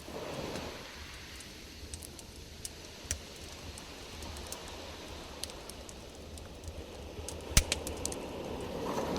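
Campfire crackling: scattered sharp pops and snaps over a soft hiss, with one loud pop about seven and a half seconds in.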